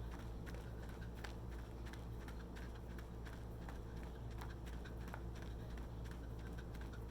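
Running footsteps on a path, light quick clicks a few times a second over a steady low hum.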